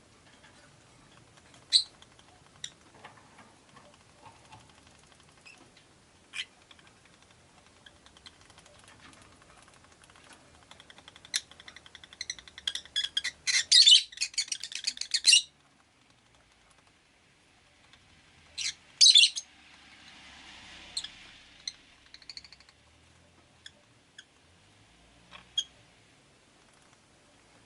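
Rosy-faced lovebirds chirping: scattered sharp single chirps, then a rapid run of shrill chattering calls that builds a little before the middle and stops abruptly, followed a few seconds later by a brief burst of loud chirps.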